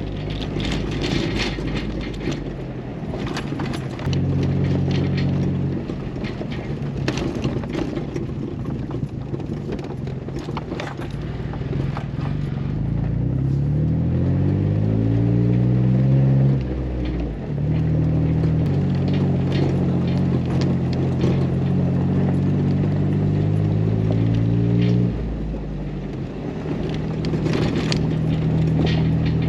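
Jeep Wrangler engine pulling along a gravel road, with scattered crunches and rattles. The engine note rises steadily through the middle, drops suddenly at a gear change, holds steady for several seconds, then falls away as the throttle eases off.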